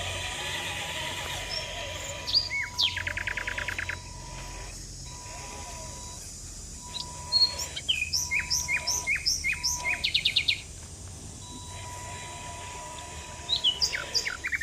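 A songbird singing three phrases of quick sliding whistled notes, each ending in a fast trill, over a faint steady high tone.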